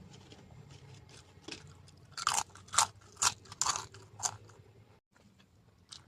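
A person chewing crunchy food close to the microphone: soft mouth clicks at first, then about five loud crunches in quick succession from about two seconds in.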